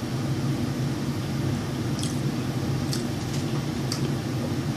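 Close-up chewing and mouth sounds from eating fried chicken, with a few small wet clicks about a second apart. Under them runs a steady low hum.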